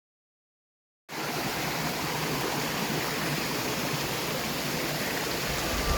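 Steady rushing of running water, cutting in abruptly about a second in after silence.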